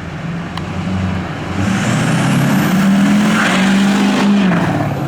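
Diesel pickup truck engine revved up from idle about a second and a half in, held at higher revs, then dropped back to idle near the end, with a high whistle rising as it climbs. The engine is blowing heavy black smoke (rolling coal), a fault that new injectors and a swapped EGR valve have not cured.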